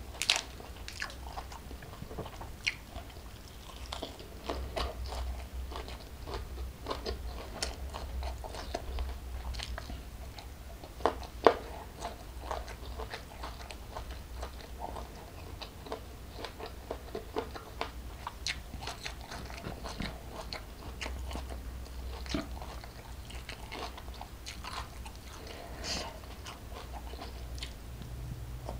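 Close-miked chewing of a lettuce-wrapped mouthful: wet crunches and many small sharp clicks, a louder pair about eleven seconds in, over a faint low hum.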